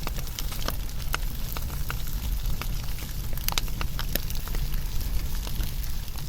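Wood fire burning, with irregular sharp crackles and pops over a low, steady rumble, and a quick run of pops a little past halfway.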